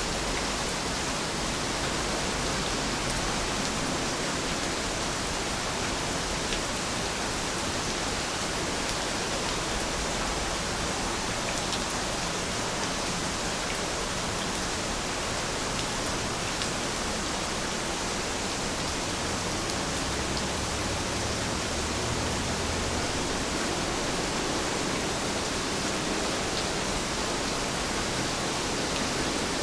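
Heavy rain falling steadily, a dense even hiss of drops with the odd faint patter standing out.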